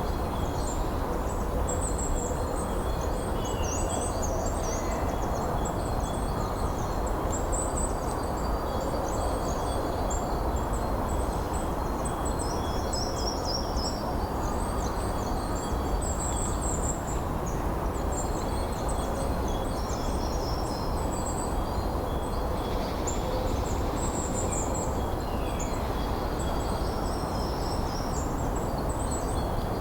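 Steady wind noise with a chorus of small birds singing over it: many short, high chirps and trills overlapping throughout.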